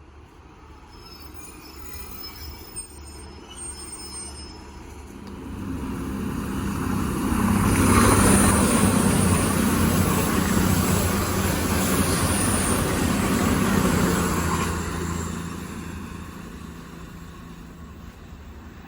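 A train passing: the noise builds for several seconds, stays loud for about seven seconds as it goes by, then fades away.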